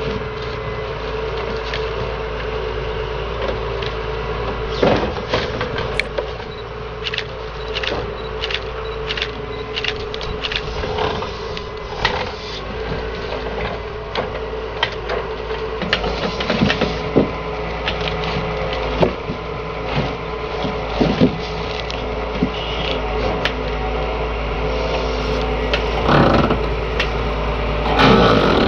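Excavator engine and hydraulics running steadily while a log grapple works, with scattered knocks and clunks of wood being gripped and moved, and louder clattering twice near the end.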